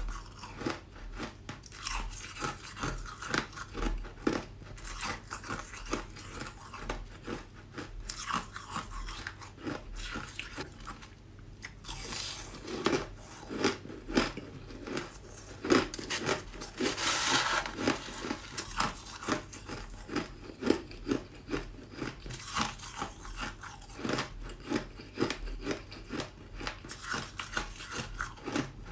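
A person biting and chewing ice, with many sharp, irregular crunches close to the microphone and a longer grinding crunch about halfway through.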